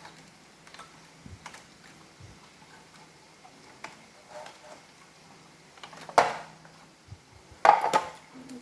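Light clicks and ticks of small plastic Roomba parts being handled during reassembly, with two louder short rattling scrapes about six and nearly eight seconds in.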